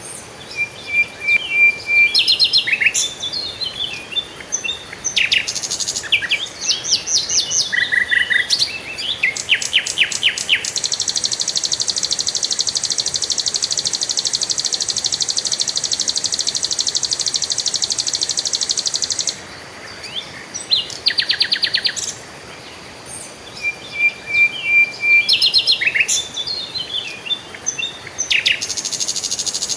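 Songbirds chirping and trilling in short, varied phrases, some as rapid rattles. A steady high buzzing trill runs for about eight seconds in the middle and starts again near the end.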